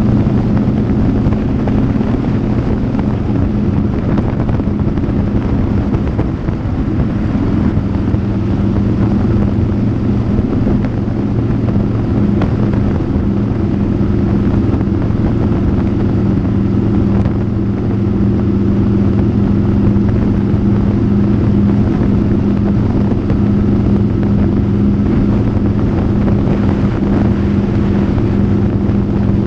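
Motorcycle engine running at a steady cruising speed, its pitch holding even, with wind noise on the microphone.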